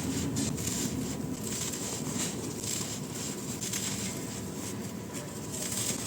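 Soft, dry, crispy blocks being crumbled, a continuous dense crunching and crackling.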